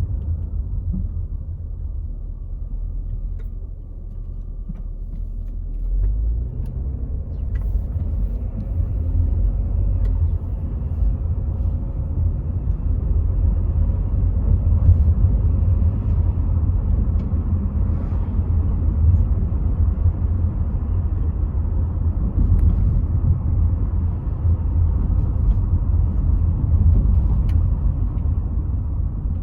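Rover 75 V6 Tourer heard from inside while driving: a steady low rumble of engine and road noise. It is a little quieter for the first few seconds, then swells about six seconds in, with a faint rising engine note as the car pulls harder.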